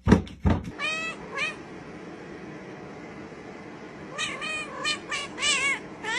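A few sharp thumps, then a cat meowing: two short meows, a quick run of several more about four seconds in, and a longer meow beginning near the end.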